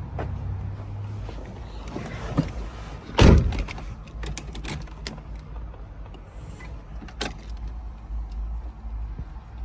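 A car door shut with one loud thud about three seconds in, with a few small clicks and handling sounds before and after it, over a low steady hum. The engine is not yet running.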